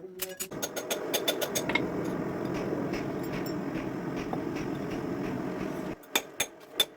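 A steady roaring noise for about five seconds that cuts off suddenly, then hammer blows on metal at about three a second near the end; a few hammer strikes also fall at the very start.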